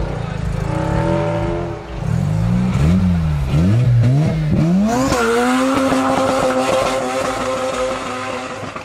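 Tuned car engine revving: a few quick blips up and down, then climbing to high revs held for about three seconds before dropping off near the end.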